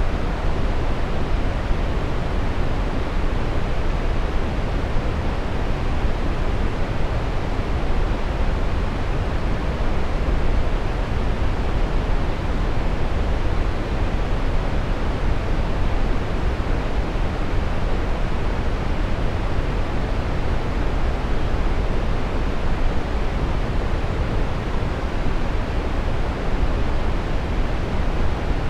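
Steady brown noise: an even, unchanging hiss weighted towards the low end, like a deep rushing.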